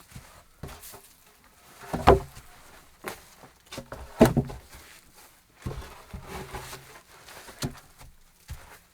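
Irregular wooden knocks and thuds, with two loud sharp strikes about two seconds apart and softer knocks between them.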